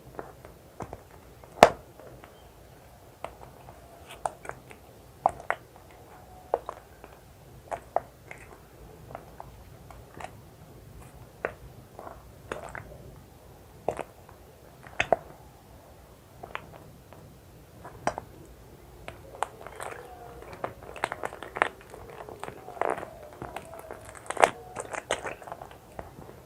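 Close-up handling of plastic medical items, IV serum bag and syringe: irregular sharp clicks and taps about once a second, growing into a busier cluster of clicks and crinkles near the end.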